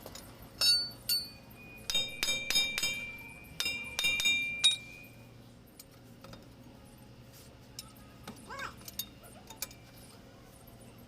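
Metal tools or parts clinking together, a quick run of sharp ringing strikes in the first half, one note left ringing for a couple of seconds.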